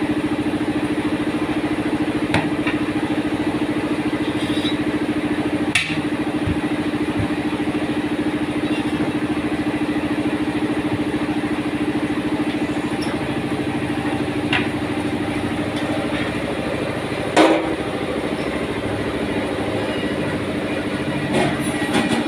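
A motor-driven tyre-changing machine running with a steady drone, with a few sharp metallic knocks as it works a large truck tyre off its rim, the loudest knock about two-thirds of the way through.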